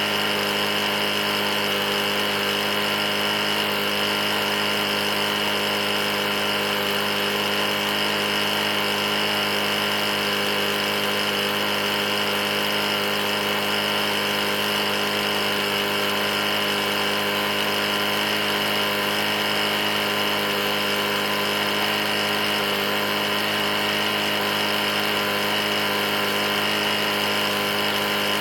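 Briggs & Stratton E450 single-cylinder four-stroke mower engine running steadily at one speed. The engine has a bad knock, taken to be the result of being run almost out of oil.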